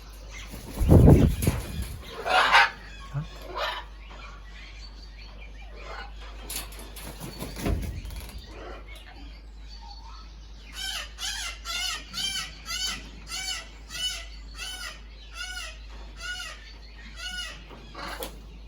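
A bird calling in a steady series of about a dozen short, arched, pitched calls in the second half, after a few thumps and rustles early on.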